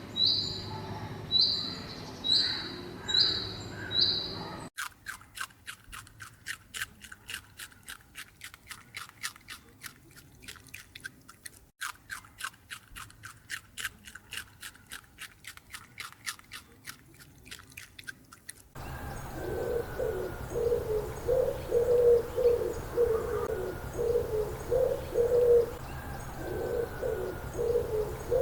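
Birds peeping in short, high, repeated notes, about two a second. This cuts to a stretch of rapid, crisp clicking, about three clicks a second, and then to a bird cooing in repeated low phrases.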